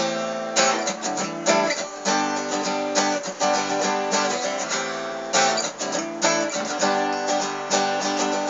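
Acoustic guitar strummed in chords, an instrumental passage with no singing.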